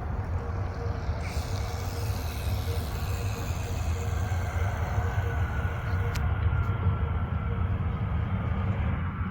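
Airbus A319 jet engines passing close by on landing: a heavy rumble with a whine that falls slowly in pitch.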